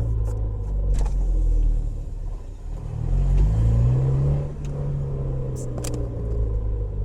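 Car in first or second gear at low revs with the accelerator pressed and released. The engine note falls and rises, with a rumbling groan from the manual transmission that the owner notes just after a gear-oil change. A few short clicks are heard about a second in and near the end.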